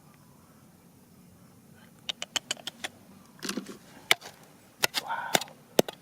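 A quick, irregular run of sharp clacks and knocks of hard objects striking each other, starting about two seconds in, with a couple of brief scraping rustles between them.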